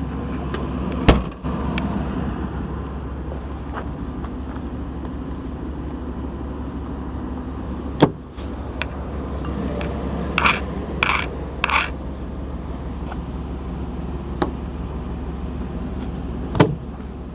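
A Chevy 5.7 L V8 idling with a steady low hum. It is broken by a few sharp knocks and three short rattles in quick succession near the middle.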